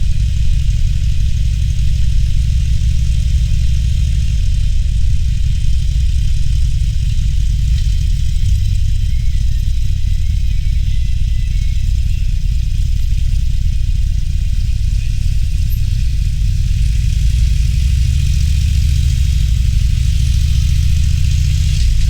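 Harley-Davidson Roadster's V-twin engine running at low, fairly steady revs, with a deep pulse and a light hiss above it.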